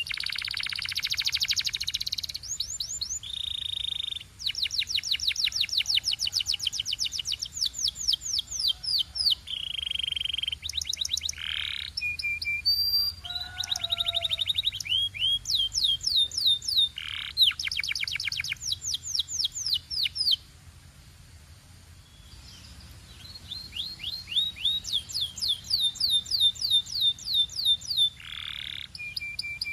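Canary singing: long runs of rapid, repeated trilled notes and whistled rolls, broken by a pause of a few seconds about two-thirds of the way through.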